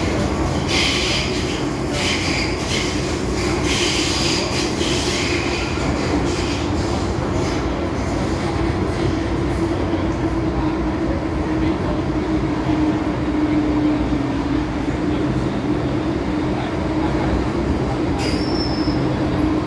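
MTR M-Train electric multiple unit running on the line, a steady rumble of wheels on rail under an even hum. High wheel squeal comes in quick bursts during the first five seconds, and a short squeak comes near the end.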